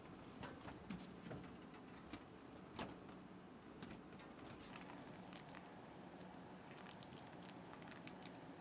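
Near silence: faint room tone with a low steady hum and scattered light ticks and taps.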